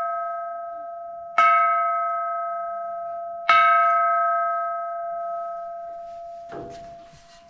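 A large metal temple bell struck by hand, ringing with a clear, steady pitched tone that dies away slowly. It is struck twice more, about two seconds apart, each strike renewing the ring, and a short scuffle follows near the end.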